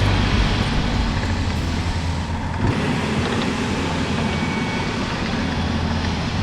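A vehicle engine running steadily with a continuous low rumble.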